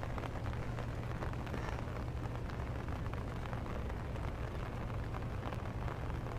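Rain pattering steadily on an umbrella held overhead, a dense run of fine ticks over a steady low rumble.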